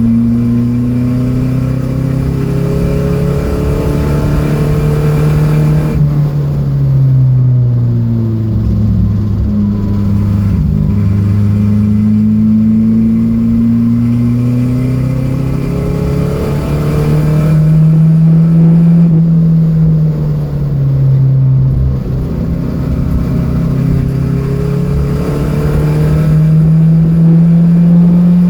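Datsun B210's engine running hard on a race track, its pitch climbing slowly and then dropping several times as it accelerates and comes off for corners or gear changes.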